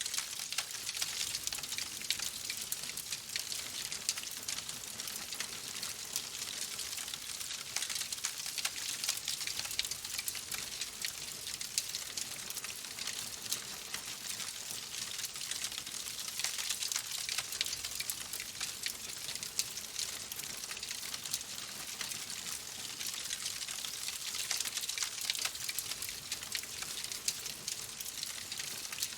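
Wood fire crackling steadily, with a dense run of small pops and snaps over a soft hiss.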